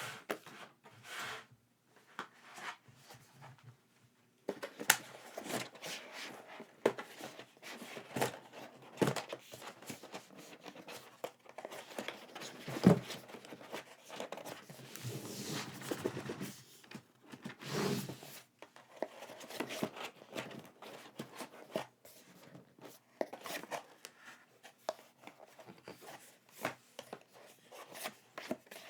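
Packaging being handled: paper and plastic rustling and crinkling, with many small clicks and knocks. It is sparse for the first few seconds, then busy from about four seconds in.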